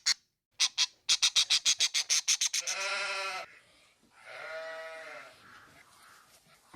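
A rapid run of short, high chattering clicks, about six a second, stops at about two and a half seconds. Two bleats follow, the second one longer.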